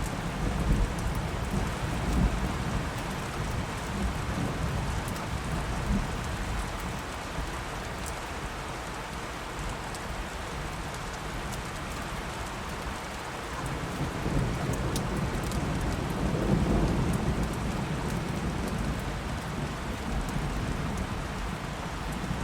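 Steady rain with thunder rumbling low underneath: one roll in the first few seconds and another swelling about two-thirds of the way through.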